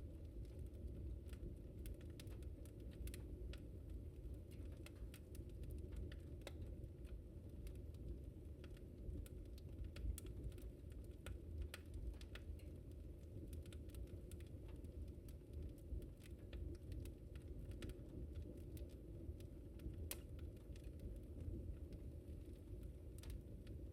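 Fire in a fireplace crackling: irregular sharp pops and snaps scattered over a steady low rumble.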